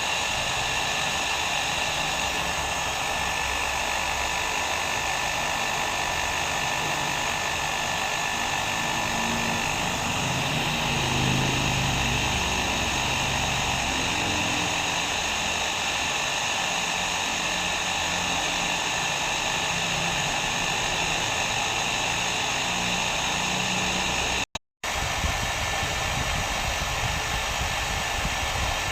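Hair dryer blowing with a steady, even hiss and a faint whine. It cuts out completely for a split second about four seconds before the end, then carries on unchanged.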